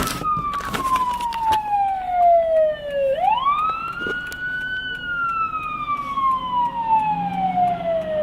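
Police car siren wailing: a single tone slides slowly downward, sweeps quickly back up about three seconds in, then slides slowly down again. A few short clicks come in the first second and a half.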